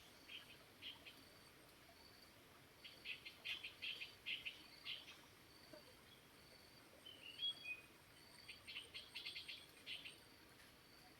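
Small songbirds chirping in quick clusters of short high notes, in three bouts, over a faint, steady hiss of a flowing stream. A faint, high, evenly repeating insect-like trill runs underneath.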